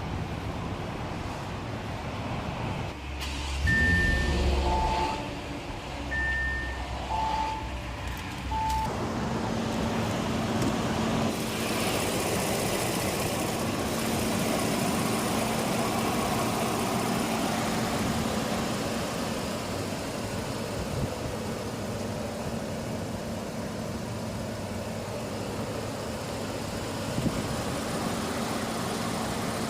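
A few short two-pitch electronic chime beeps, then the 2017 Bentley Bentayga's W12 engine running steadily at idle with an even hum.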